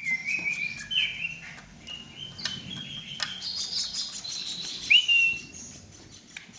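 Hand-reared baby birds begging with short, repeated chirps, several chicks calling over one another, the sign that they are hungry at feeding time. Each loud call jumps up and then holds its pitch; the loudest come about a second in and near five seconds, with fainter higher chirps between.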